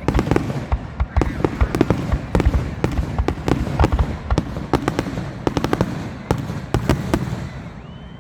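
Fireworks finale: a rapid barrage of booming shell bursts and crackling reports, many per second, thinning out and fading near the end.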